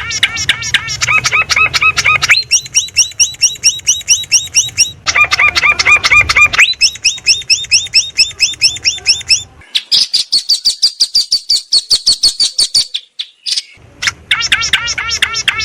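Long-tailed shrike (cendet) singing a dense medley of mimicked phrases: rapid runs of repeated high whistled notes, several notes a second. The phrase type switches abruptly every couple of seconds, with a short break about thirteen seconds in.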